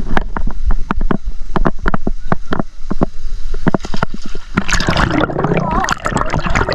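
Water splashing and sloshing in quick uneven strokes, over a steady rumble of wind on the microphone; voices call out in the last couple of seconds.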